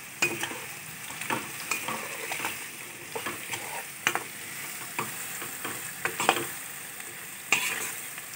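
Potato cubes sizzling in hot mustard oil while a spatula stirs them, clacking and scraping against the pan at irregular moments.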